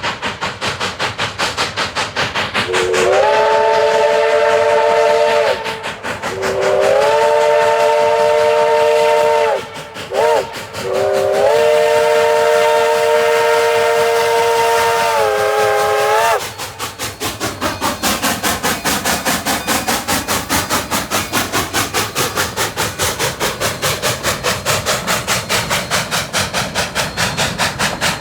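Coal-fired K36 steam locomotive 487 working hard, its exhaust beating steadily. Its chime whistle blows two long blasts, a short one and a final long one, the grade-crossing signal. After the whistle stops, the exhaust beats carry on.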